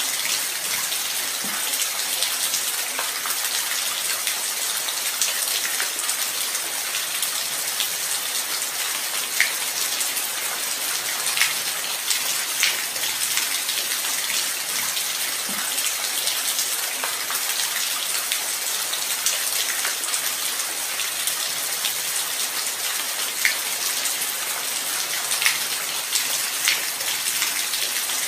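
Light rain falling steadily: an even hiss with scattered louder drops ticking throughout.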